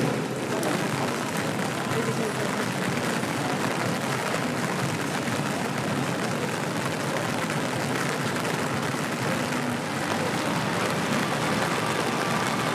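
Rain falling on a city street: a steady, even hiss with the murmur of passers-by's voices under it.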